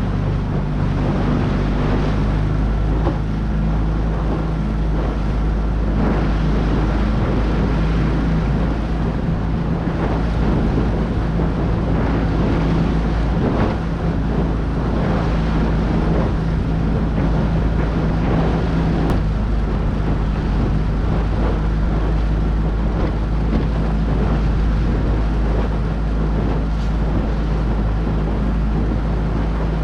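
Motorboat under way: the engine runs at a steady speed, with wind on the microphone and water rushing past the hull.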